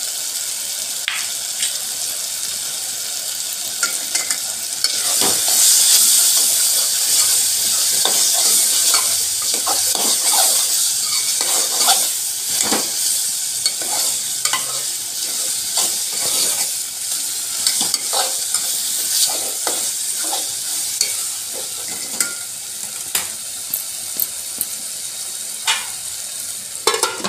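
Tomato chutney sizzling in a metal pot as a steel ladle stirs it after chilli and coriander powder have gone in. The sizzle is steady and gets louder about five seconds in, with frequent small clicks and scrapes of the ladle against the pot.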